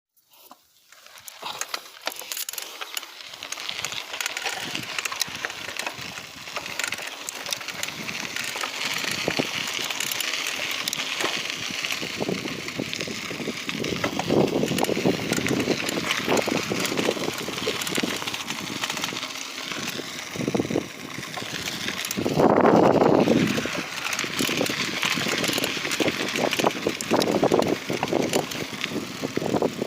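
Bicycle being ridden over a rough track: a steady rushing noise of tyres and air, with many small rattling clicks from the bike, and a louder rush about 22 seconds in.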